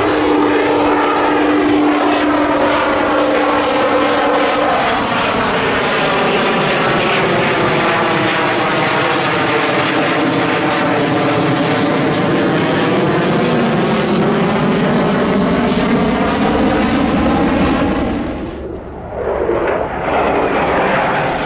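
Jet aircraft flying past loud and close, a dense engine noise whose banded pattern sweeps down and back up as it passes, with a steady hum for the first few seconds; the noise dips about nineteen seconds in.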